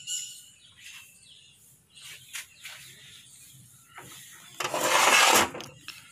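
Scattered light clicks and taps of metal parts being handled, then a one-second burst of hissing noise about four and a half seconds in, as the king pin seat of a JCB axle is cleaned.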